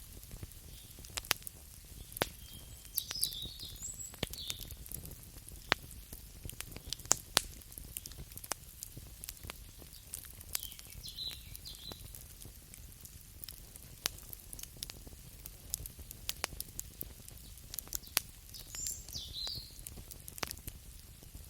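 Campfire crackling: irregular sharp pops and snaps from the burning wood over a low steady background, with brief high chirping calls three times, about three, eleven and nineteen seconds in.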